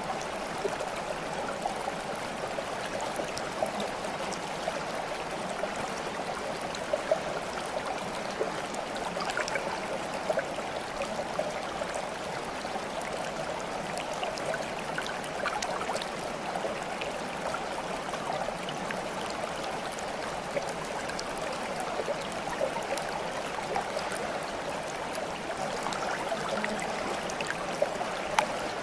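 Steady babbling of flowing stream water, with small sharp splashes and drips scattered through it and a couple of slightly louder ones.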